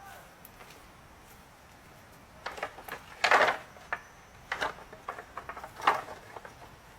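Irregular knocks and clatters of something being handled, starting about two and a half seconds in, the loudest a little past three seconds and again near six seconds.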